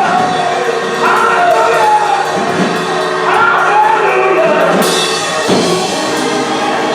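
Church choir singing a gospel song with instrumental backing, voices gliding over steady held chords.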